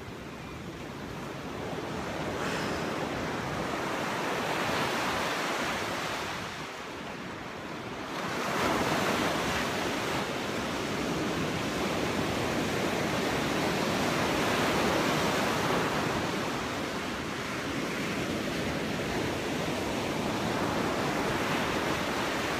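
Pacific Ocean surf breaking and washing up the shore in swelling, ebbing waves, with a big surge about eight seconds in.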